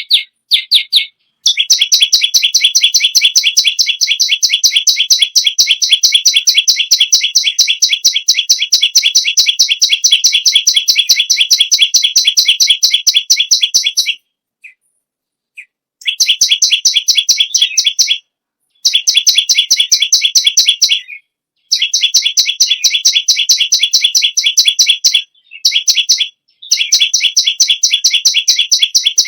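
A perenjak lumut (perenjak bawah) singing in full, intense voice: a loud, rapid chattering of high notes, about eight to ten a second, in long runs. The runs stop for a couple of seconds about halfway through and break off briefly several times after that.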